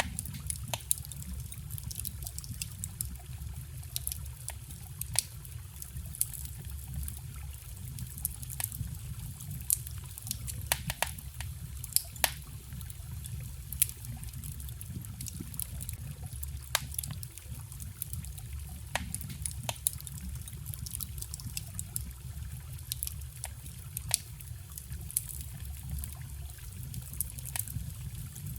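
Wood bonfire crackling, with frequent irregular sharp pops and snaps, over the steady flow of a small forest stream.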